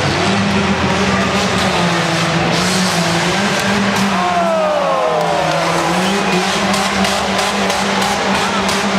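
Off-road tuff truck engine running hard under load, with a set of falling pitches about halfway through as the revs come down.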